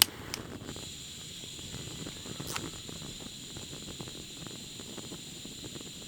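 Food sizzling in a frying pan, a steady crackling hiss with a sharp click at the start and another about two and a half seconds in. A steady high tone runs behind it.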